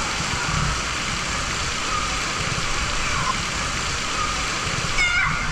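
Water running steadily, a constant rushing like a fountain or cascade. A brief high call sounds near the end.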